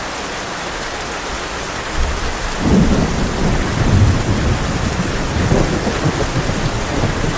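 Heavy rain falling steadily on a tin roof. About two seconds in, a low roll of thunder starts, loudest around three to four seconds in, and rumbles on.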